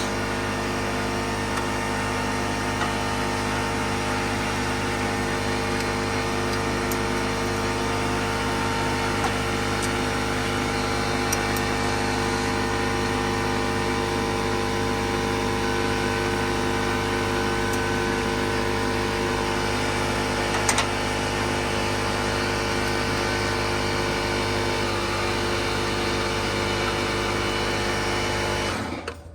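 Electric shop air compressor running steadily at one pitch, then shutting off abruptly near the end, typical of it reaching its cut-out pressure after recharging the tank.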